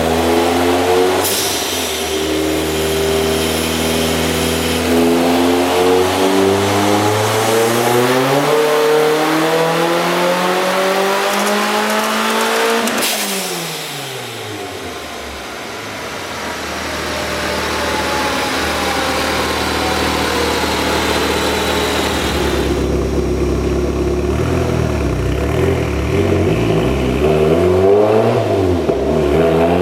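Turbocharged Mazda MX-5's 2.5-litre four-cylinder on a chassis dyno making a full-throttle pull, its pitch climbing steadily for about twelve seconds. Then a sharp burst of noise as the throttle shuts, and the revs fall away. Low running follows, with a few quick blips of the throttle near the end.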